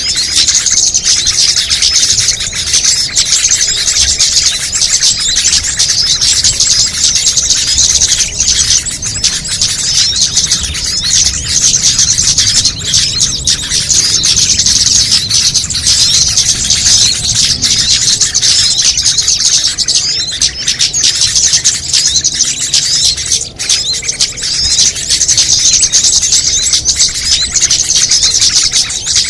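Dense, unbroken high-pitched chirping and twittering of many small songbirds, a layered combination of calls used as a bird-luring (pikat) track.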